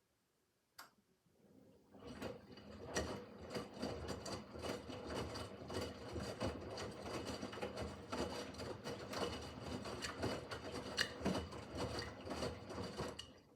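Miele W5801 WPS washing machine turning its drum in the wash phase: a motor runs steadily with many small knocks, starting about two seconds in after a single click and stopping just before the end.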